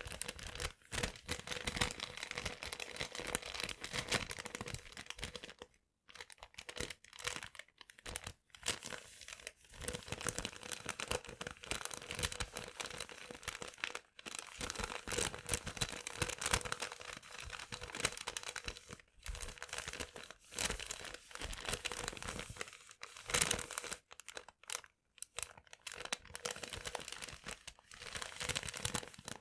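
Paper being crinkled and crumpled by hand, close up: dense crackling that stops for short pauses several times.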